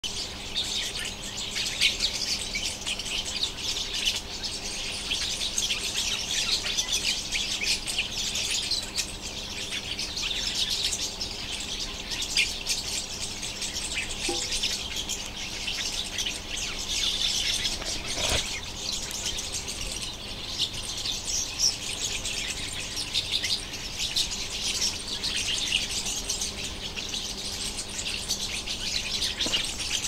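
A flock of birds hidden in a tree, chirping and chattering nonstop, with many short calls overlapping into a dense chorus.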